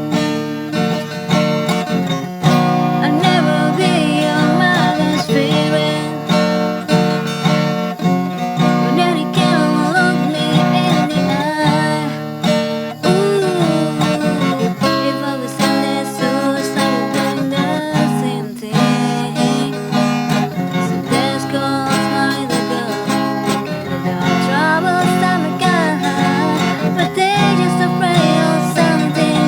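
Acoustic guitar music: chords strummed steadily, with a melody line moving above them.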